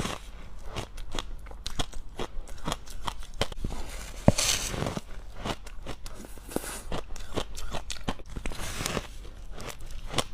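Close crunching and chewing of mouthfuls of frost ice: a dense run of crisp crackles, with a few longer, louder crunches spread through and one sharp crack a little past the middle.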